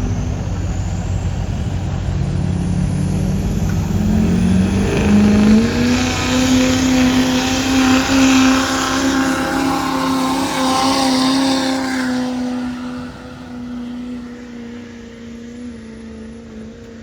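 Diesel pickup truck engine under full load during a truck pull. It climbs in revs over the first few seconds, holds at a steady high pitch with a loud rushing hiss while it pulls, then fades away past two-thirds of the way through.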